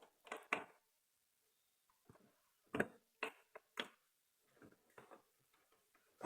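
About ten short, irregular clicks and light knocks with silence between them, the sharpest ones about half a second in and around the middle.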